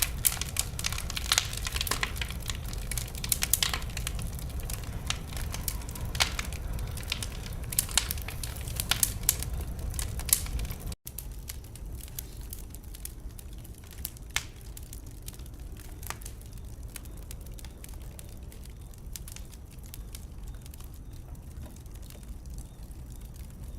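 Wood fire burning in a fireplace, crackling and popping over a steady low rumble. The pops come thick and fast at first, the sound cuts out for an instant about eleven seconds in, and afterwards the crackles are sparser and quieter.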